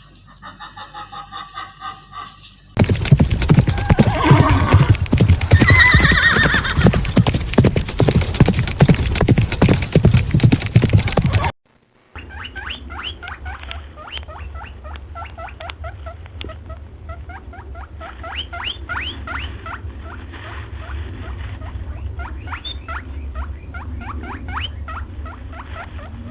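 A run of animal sounds, one after another: first a short pitched call, then a loud noisy stretch full of rapid clicks, then a long series of quick high chirps over a low hum.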